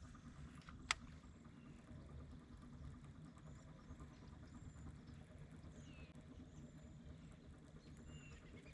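Quiet outdoor ambience with a steady low rumble and faint, scattered bird chirps, broken by a single sharp click about a second in.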